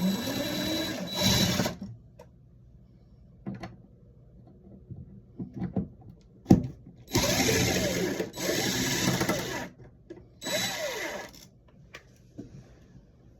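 A small cordless power drill/driver runs in three short bursts. Its motor pitch rises and falls with the trigger, which fits driving the screws of a wall switch. A few handling clicks come in the gaps between the bursts.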